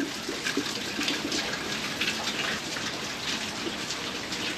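Steady heavy rain falling, a dense patter of many small drops.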